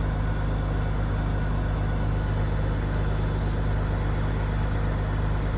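Combine harvester's engine running at a steady idle, a constant low drone.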